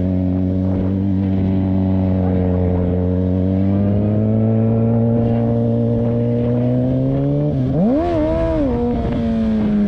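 Motorcycle engine running steadily under way, its pitch climbing slowly as revs build, with a quick rise and fall in revs about eight seconds in.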